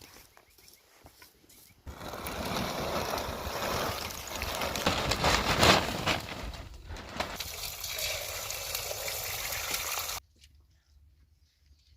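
Rushing, splashing water that starts abruptly about two seconds in, swells midway, and cuts off suddenly near the end, with quiet scattered clicks before and after.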